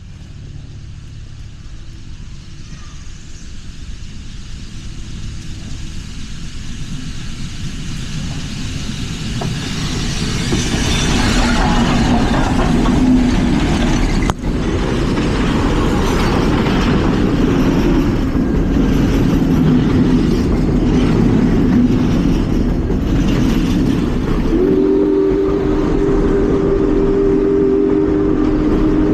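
Union Pacific Big Boy 4-8-8-4 articulated steam locomotive approaching and passing close by: a rumble and rush of noise grows over about ten seconds to a loud, steady din. About twenty-four seconds in, a chime whistle starts sounding a steady chord.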